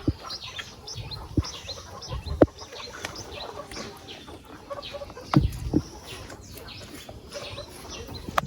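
Chickens clucking with birds chirping in many short high calls, and several sharp knocks scattered through.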